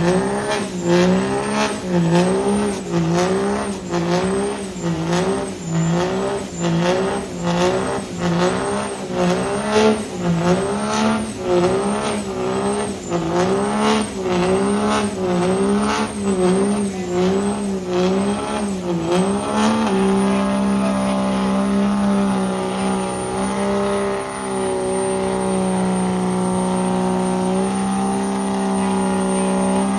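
Truck engine held at high revs during a burnout, its revs surging up and down about once a second with a high turbo-like whistle rising and falling along with them. About two-thirds of the way through the revs settle and hold steady, with the whistle held.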